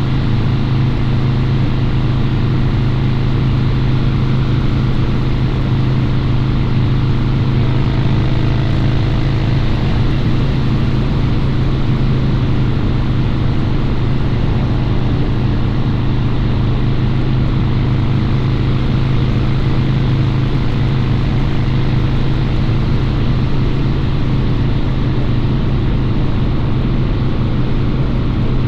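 Harley-Davidson Low Rider's 129 cubic inch V-twin running through a Two Brothers Racing exhaust, holding a steady engine note with no revving or throttle changes.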